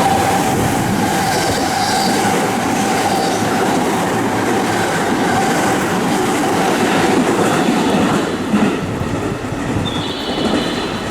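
JR West Kyoto Line electric train passing through the station platform without stopping: a loud, continuous rumble of steel wheels on the rails that eases off after about eight seconds.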